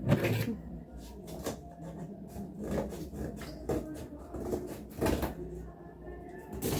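Cardboard boxes being handled and set in place: irregular knocks and scrapes about once a second, the loudest right at the start and near the end.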